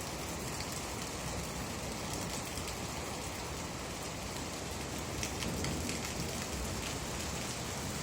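Steady rain falling, with many fine drop ticks on hard surfaces.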